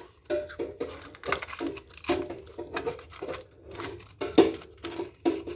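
Irregular clicks, taps and light scrapes of small metal tools and parts being handled on a workbench.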